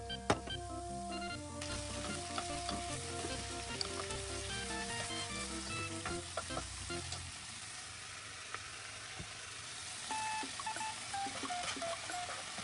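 Beef and sliced onion sizzling as they are stir-fried in a pot, with a steady frying hiss that starts about a second and a half in and a sharp knock just before it. Light background music plays throughout.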